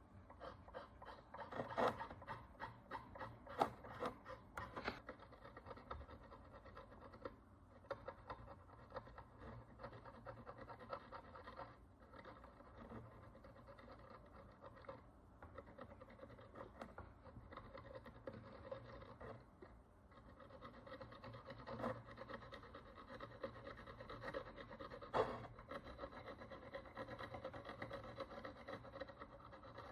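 Small hand tool scratching and scraping at the encrusted surface of a Roman bronze coin, a steady rough rasping broken by a few sharper clicks and scrapes.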